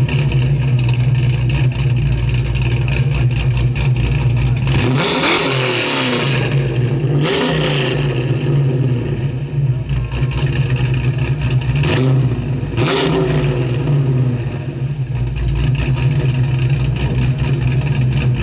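A car engine idling steadily, with three brief rises and falls in revs, two close together and a third a few seconds later.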